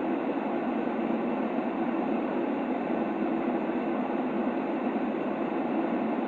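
Steady, unchanging white noise played to soothe a baby to sleep: a muffled, even hiss, heaviest in the low middle, with no sharp top and no rhythm.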